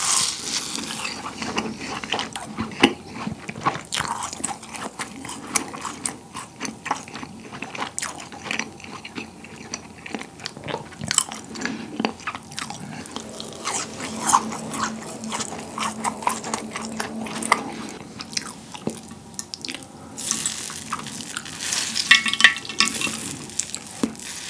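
Close-miked mouth sounds of a rasgulla, a spongy syrup-soaked cheese ball, being bitten and chewed, with many small wet clicks and the soft tearing of its spongy texture. Near the end the sound thins out as a rasgulla is squeezed by hand and its syrup drips onto the plate.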